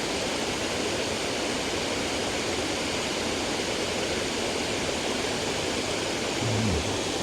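Water pouring over a dam spillway, a steady rushing.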